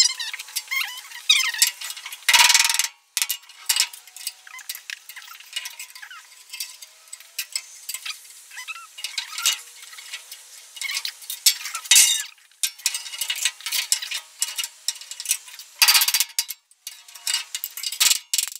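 Metal clatter of aluminium flat-bar bracket pieces being worked and handled: a busy run of small clinks, scrapes and squeaks, with a few louder scraping stretches.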